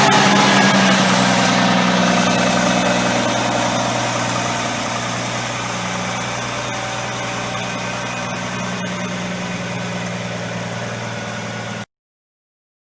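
Heavy diesel truck engine running steadily at low revs, slowly fading, then cutting off suddenly near the end.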